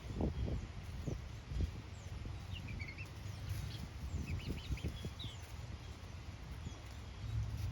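Chickens clucking, with a few short high chirps about halfway through.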